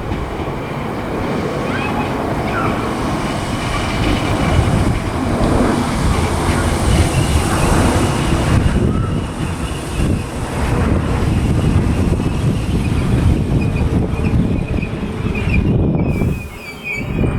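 Merseyrail electric multiple-unit train running through the station with a steady rumble, and a high wavering squeal from the wheels near the end.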